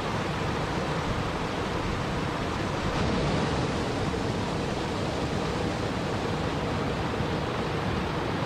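Steady rushing water, an even, unbroken noise with a slight swell about three seconds in.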